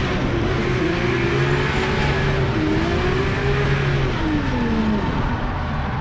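Drift car engine revving hard, its pitch swinging up and down as the throttle is worked through a drift, over a dense rush of noise. The revs fall away about five seconds in.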